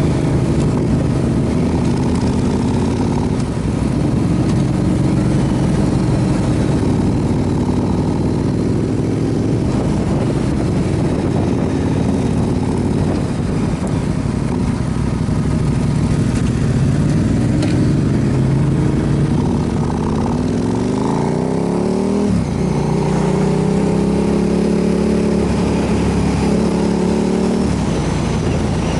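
Motorcycle engine running at road speed. About twenty seconds in its pitch climbs steadily as it accelerates, then holds higher.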